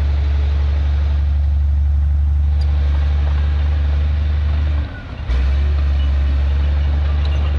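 Heavy diesel engine of earthmoving machinery running steadily with a deep low drone. The sound dips briefly about five seconds in, then carries on as before.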